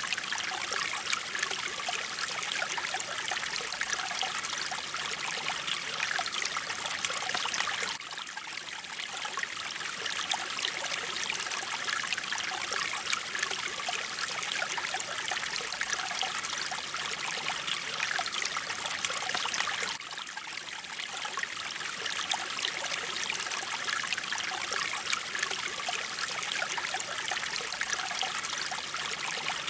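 Mountain stream: water flowing and trickling steadily, with brief small dips in level about a quarter of the way in and again about two-thirds of the way in.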